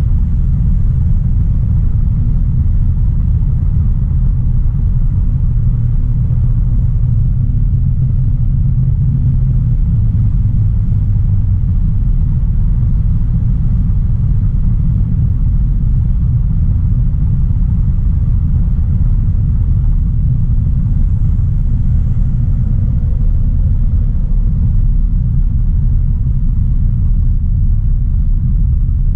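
Steady low rumble of a 2016 Audi A3 Sportback 1.4 TFSI being driven at an even pace: its turbocharged four-cylinder petrol engine together with tyre and road noise, with a slightly stronger low hum between about six and ten seconds in.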